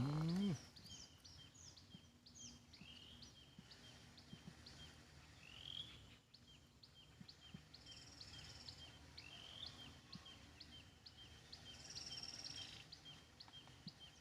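Birds calling: a steady series of short, repeated chirps, about two or three a second, with a few longer sweeping and buzzy calls from other birds over them.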